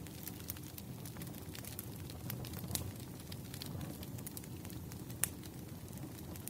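Wood campfire crackling: irregular sharp pops and snaps over a low, steady sound of burning, with two louder pops, one a little under three seconds in and one past five seconds.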